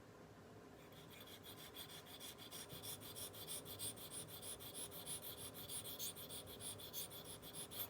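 Water-wetted sharpening stone stroked against the cutting edge of a posterior sickle scaler: a faint, even scraping at about four strokes a second. It starts about a second in and stops just before the end.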